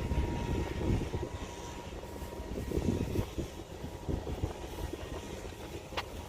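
Wind buffeting the microphone: a low, uneven rumble that rises and falls in gusts, with one sharp click near the end.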